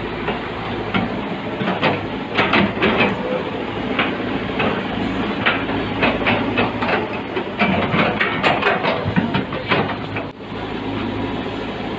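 Heavy diesel construction machinery running steadily, with frequent irregular metallic clanks and knocks of steel parts and tracks working. There is a brief dip in the sound about ten seconds in.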